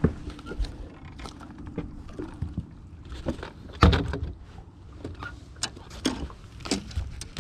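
Irregular knocks, clicks and thumps of gear being handled in a fishing boat, the loudest thump about four seconds in. A faint steady hum fades out after the first couple of seconds.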